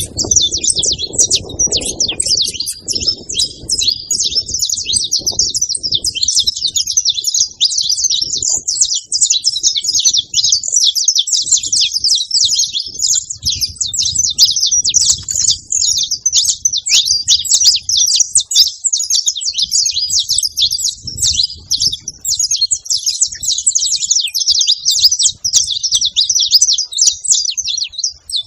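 A flock of saffron finches chirping and singing all at once: a dense, continuous chorus of short, high chirps overlapping without pause.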